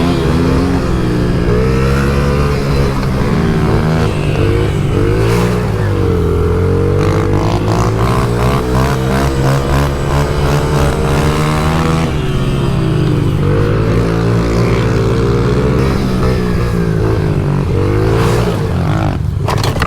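Dirt bike engine running hard under racing throttle, its pitch climbing and dropping again and again as the rider twists the throttle and changes gear.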